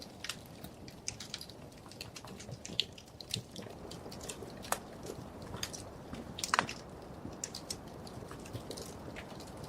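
Wood fire in a fireplace crackling: irregular sharp pops and snaps over a steady low rumble of the flames, with a louder cluster of pops about two-thirds of the way through.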